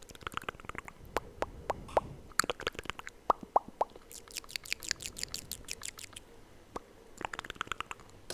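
Close-miked ASMR mouth sounds: wet clicks and pops in quick runs, with a few sharper, pitched pops a little past three seconds in.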